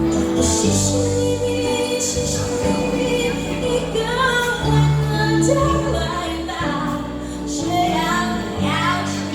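Live band playing a pop-rock song: a woman singing over electric guitars, bass guitar and drums, with cymbal crashes.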